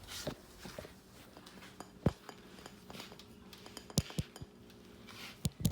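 Dishes and a utensil clinking and knocking on a kitchen counter: a handful of sharp separate clinks, the loudest about two seconds in, again at four seconds, and a quick pair near the end.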